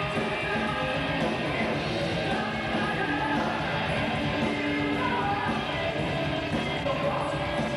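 Rock band playing live, with fast, dense drumming under the full band.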